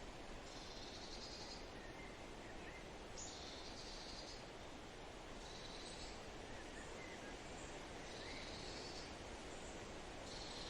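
Forest bird song: a high, rapid trill about a second long, repeated five times at intervals of two to three seconds, with faint short chirps from another bird in between, over a steady background hiss.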